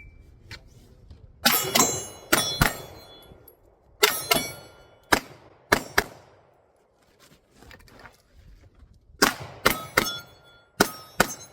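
Pistol shots fired in quick groups of two to four, about a dozen in all, with a lull of a few seconds in the middle. Steel targets ring after many of the hits.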